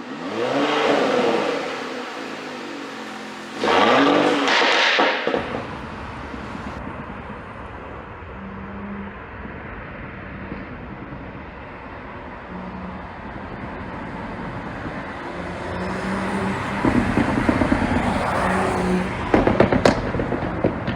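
Porsche Cayenne E-Hybrid's 3.0-litre turbo V6 revved twice, the pitch rising and falling each time, then running steadily at a lower level. Near the end comes a run of sharp exhaust pops and crackles from its ECU pop-and-crackle tune.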